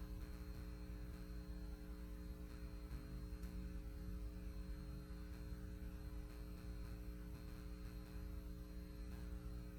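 Faint, steady electrical mains hum, a few even tones held without change; no other sound stands out.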